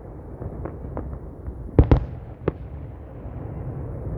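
Fireworks bursting over a low, continuous rumble. A few small pops in the first second and a half, then two loud bangs in quick succession just before two seconds in and a lighter one about half a second later.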